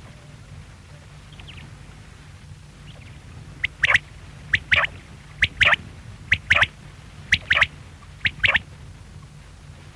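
Common quail calling: six three-note phrases of its song, a short note then a quick pair, repeated about once a second, starting about three and a half seconds in. A steady low hum lies beneath.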